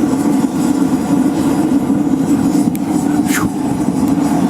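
Homemade waste-oil burner forge firing hot, giving a loud, steady rumble of flame and forced air. A brief high sound falls in pitch about three seconds in.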